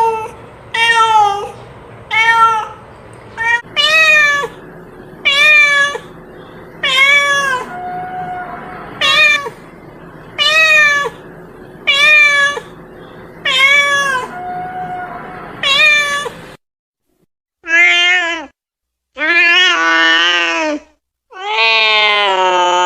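Domestic cat meowing over and over, a dozen or so short meows about one a second. After a short break, a few longer drawn-out meows follow, the last one held on.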